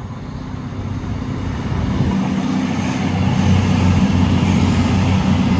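A diesel express passenger train with underfloor engines approaching at speed. The engine note is a steady low drone that grows steadily louder as the train nears.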